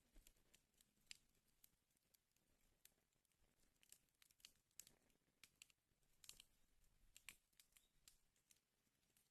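Faint crackling of a wood fire burning in a fireplace: irregular sharp pops and snaps, several a second, over a low hiss.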